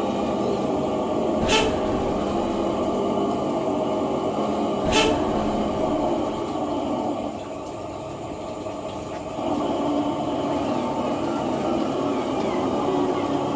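A steady motor-driven mechanical drone with two sharp clicks in the first few seconds. It drops in level for a couple of seconds past the middle, then comes back up.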